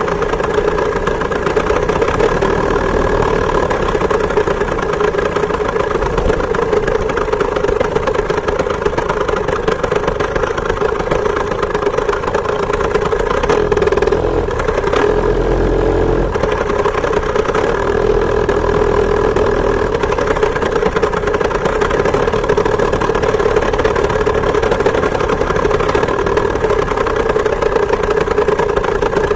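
Two-stroke chainsaw engine of a homemade moped running steadily at mid revs, its pitch dipping briefly about halfway through.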